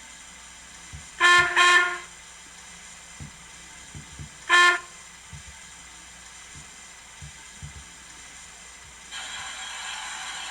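Steam locomotive whistle sounds from the ESU LokSound decoder's speaker in a model Coronation Class Pacific: two short blasts close together, then a single blast about three seconds later, the decoder's random whistles while the loco stands still. Near the end a steady hiss of steam starts, the decoder's ejector sound.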